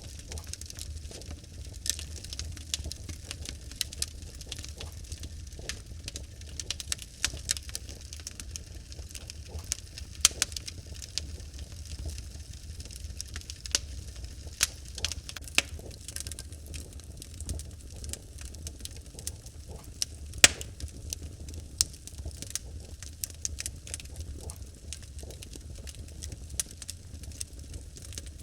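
Wood fire burning in a fireplace: irregular sharp crackles and pops from the logs over a steady low rumble of the flames, with one louder pop about twenty seconds in.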